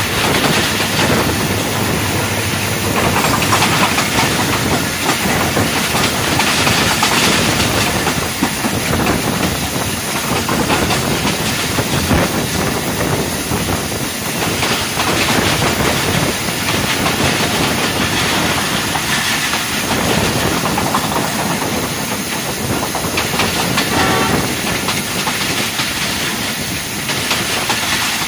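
Passenger train running at speed, heard from an open coach doorway: a steady rush of wind and wheels running on the rails. About three-quarters of the way through, a brief pitched tone rises above the noise.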